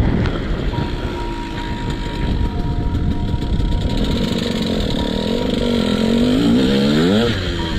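KTM SX 125 two-stroke motocross engine running, its revs climbing over the last few seconds, with a quick rise and fall near the end.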